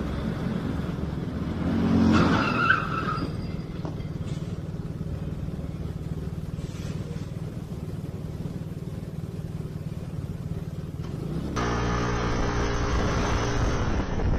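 Car engine and road noise picked up by a dashcam, steady throughout, with a brief high-pitched screech and a sharp knock about two seconds in. A different car's engine takes over near the end.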